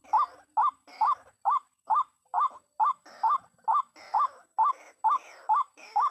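White-breasted waterhen calling: a steady string of loud 'kruok' notes, about two a second, each rising sharply in pitch.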